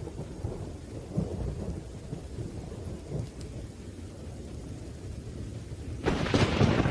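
Rain with a low, rolling rumble of thunder, broken near the end by a sudden, louder crack of thunder.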